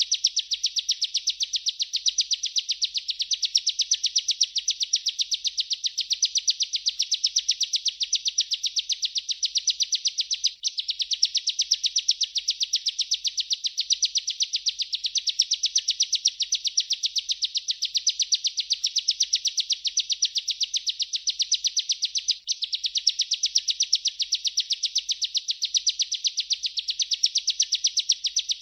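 Bar-winged prinia (ciblek) singing its unbroken rolling 'ngerol' song: a fast, even trill of high repeated notes, with two very brief breaks about 10 and 22 seconds in.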